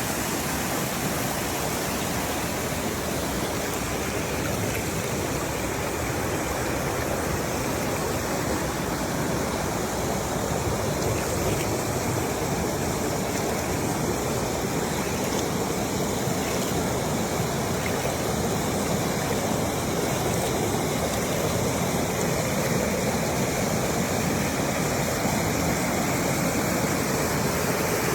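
Waterfall and the water below it rushing in a steady, even roar of noise.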